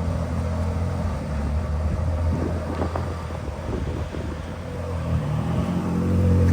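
A V8 car engine idling steadily, getting louder near the end.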